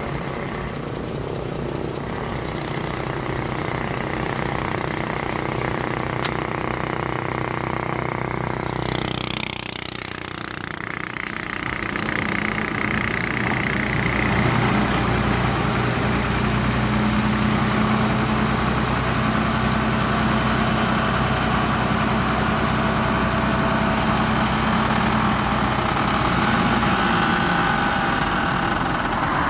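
Heavy diesel engine of earthmoving equipment running steadily. About ten seconds in it drops away briefly, then comes back louder and holds steady.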